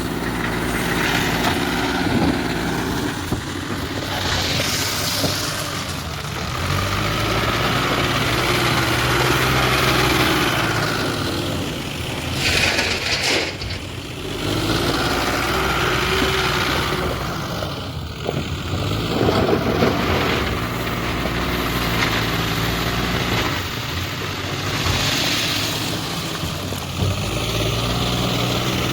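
Mahindra backhoe loader's diesel engine running under working load, revving up and easing off several times.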